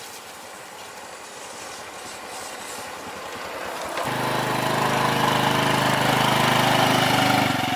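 A small motorbike engine, on a test ride after its broken chain was rejoined. It grows steadily louder as the bike approaches, then from about four seconds in runs loud and steady close by.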